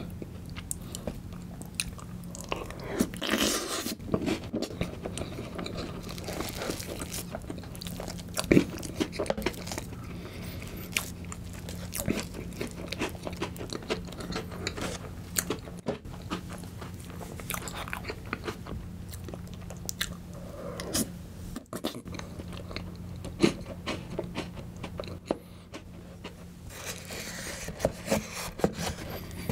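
Close-up chewing and wet mouth sounds of eating Oreo icebox cake softened with milk, with small crunches from the cookie bits. A wooden spoon scrapes and taps the plastic container now and then.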